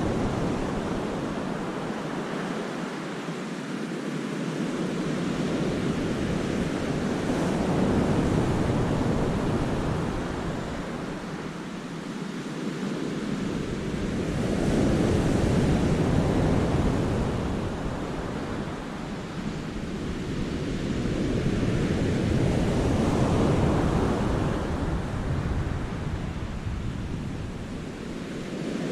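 Sea waves breaking and washing over the rocks of a cove, a steady rush that swells and fades every seven or eight seconds. Some low wind rumble on the microphone comes and goes.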